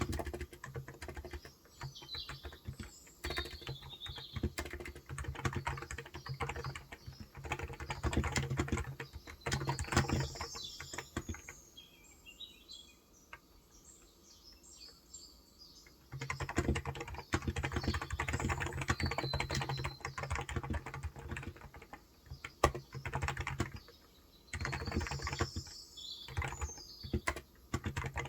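Typing on a Cox Endeavour electrostatic capacitive (contactless, 35 g) tenkeyless keyboard: runs of quick keystrokes, broken by a pause of a few seconds near the middle. Birds chirp in the background.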